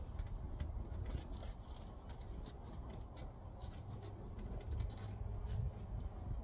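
Scattered light clicks and scraping of parts being handled while the heat pump's roof cover is fitted, over a steady low rumble.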